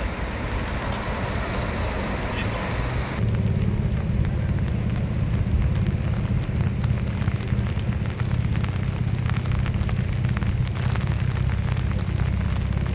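Rain in a city street: an even hiss of traffic and rain, which about three seconds in changes abruptly to a low rumble with a dense crackle of raindrops striking close to the microphone.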